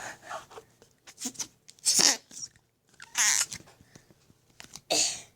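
Flarp noise putty being pressed in its tub, letting out about three short, fart-like squelches of trapped air, around two, three and five seconds in.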